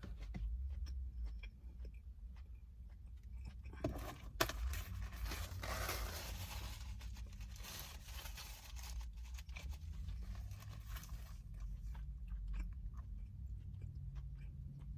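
A person chewing a mouthful of steak sandwich (soft bread, steak, bacon, garlic butter sauce) close to the microphone, with crunching and mouth sounds. Two sharp clicks come about four seconds in, and the chewing is busiest through the middle.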